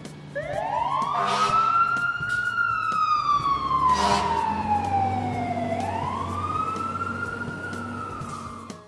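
Fire truck siren wailing: a quick rise, a long slow fall, then a second rise that fades out near the end, over a low rumble.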